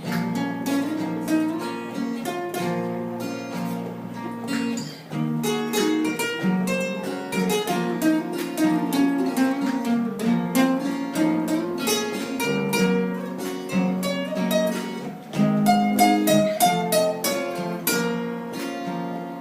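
Instrumental break in a song, with no singing: a plucked string instrument, guitar-like, picking a moving melody over strummed chords.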